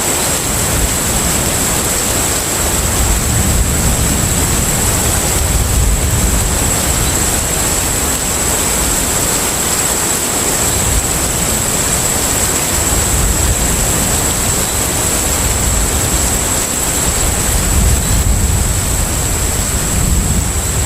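Container-ship-at-sea ambience: a steady rushing noise over a deep rumble that swells and eases every few seconds, with a thin, steady high whine.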